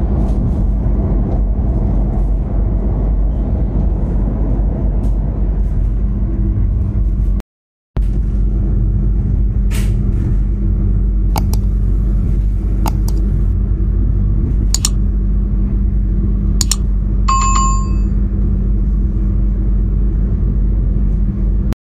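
Steady low rumble and hum of a moving passenger train heard from inside the carriage, with a few sharp clicks in the second half. A short bell-like ring comes about three-quarters of the way through, and the sound cuts out briefly once, about a third of the way in.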